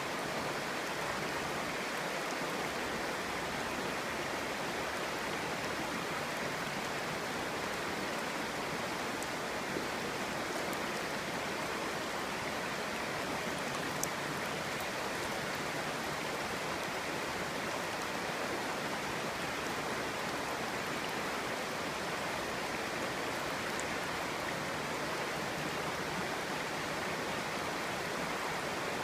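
Clear stream burbling and rushing over stones, steady and even, with a couple of faint tiny splashes or clicks about halfway through.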